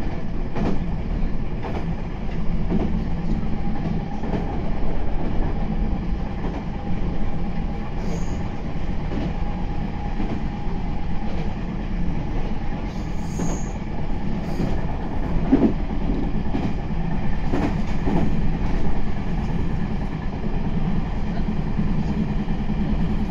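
Meitetsu 9100 series electric multiple unit running along the line, heard from inside the driver's cab: a steady rumble of wheels on rail with a few short clicks over rail joints, and a faint steady whine for several seconds in the middle.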